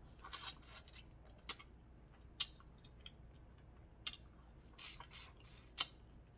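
Boiled shellfish being cracked and picked apart by hand close to the microphone: a handful of sharp cracks and short crackly, wet squishing sounds, with quiet gaps between them.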